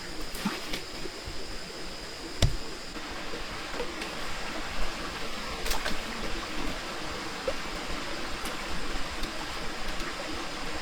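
Steady heavy rain, with a few sharp knocks, the loudest about two and a half seconds in.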